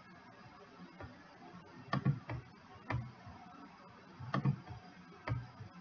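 Computer mouse clicking: six or so separate short clicks, some in quick pairs.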